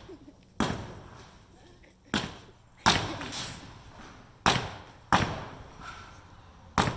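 Heavy hammer blows striking the concrete staves at the bottom of a stave silo to knock them out, six sharp strikes at uneven intervals about a second apart, each with a short ring.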